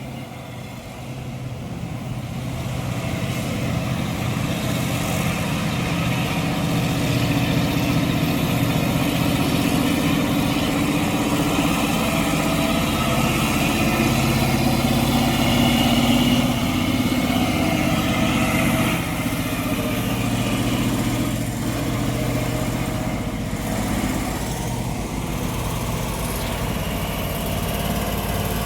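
Heavy diesel tanker truck labouring slowly up a steep climb, its engine growing louder over the first several seconds as it approaches, then running steadily under load.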